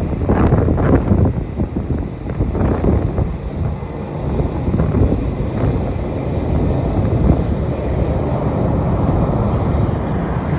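Wind buffeting the microphone in strong gusts during the first few seconds, over a steady low rumble that builds slightly toward the end.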